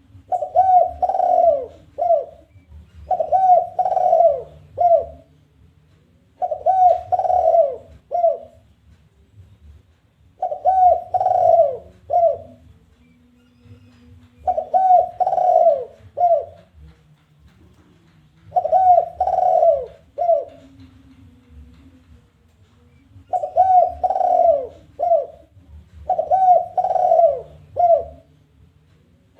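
Spotted dove (tekukur) singing its challenging coo, the 'kuk 1' type: each phrase is two or three rising-and-falling coos followed by a single short end note. The phrase repeats eight times, about every three to four seconds.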